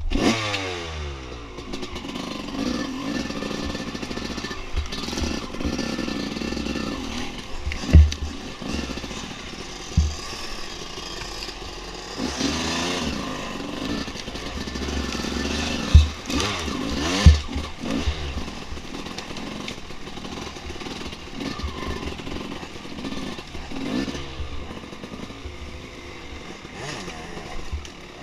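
Dirt bike engine revving sharply at the start, then running at varying revs as the bike is ridden along a trail. Several sharp thumps, the loudest a little past a quarter of the way in and twice just past halfway.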